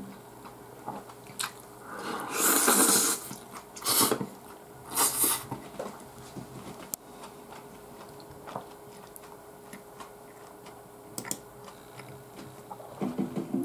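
A person chewing and eating close to the microphone, with three loud noisy mouth sounds in the first half and light, scattered clicks after that.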